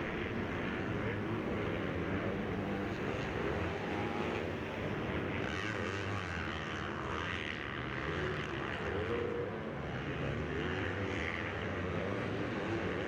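Motocross bike engines running on the track, revving up and down continuously with no break.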